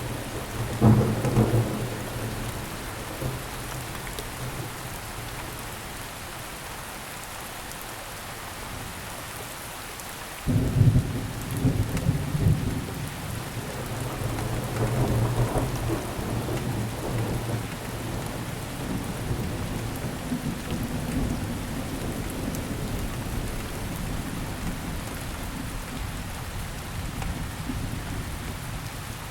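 Steady rainfall with rolling thunder. A rumble sounds in the first couple of seconds, then a sudden loud thunderclap about ten seconds in rolls on for several seconds and fades back under the rain.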